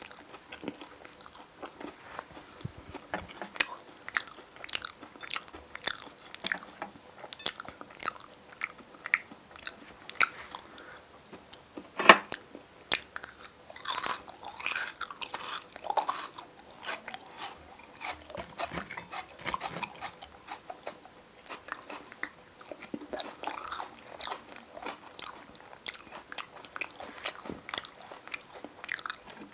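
Close-miked eating sounds: a man chewing food from a fork, with a steady run of wet mouth clicks and crackles. There is one sharp loud click about twelve seconds in, and louder, noisier mouth sounds a couple of seconds later.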